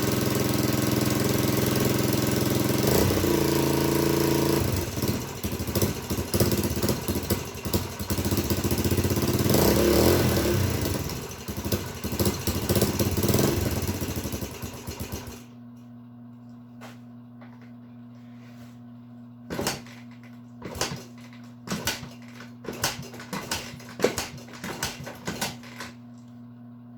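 Dirt bike engine running on choke in neutral, steady at first, then running unevenly for about ten seconds before cutting off suddenly about halfway through. After that only a low steady hum and scattered clicks and knocks remain.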